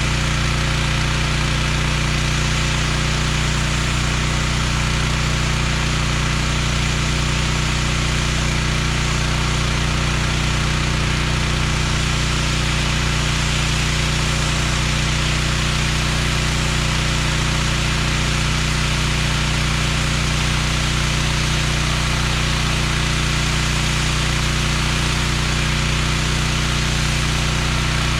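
Gas-engine pressure washer running steadily at constant speed, with a steady hiss over the engine note.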